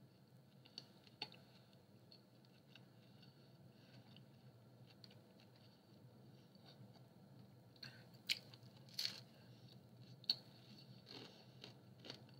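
Quiet close-up chewing of a mouthful of pizza: soft wet mouth sounds and small clicks, with a few sharper mouth clicks in the later part, over a faint low hum.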